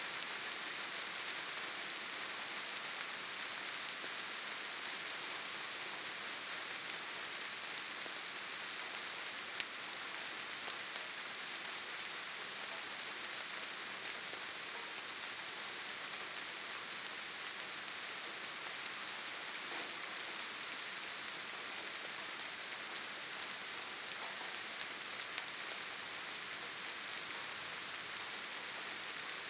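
Steady rain falling: an even hiss with the odd faint tick of a drop.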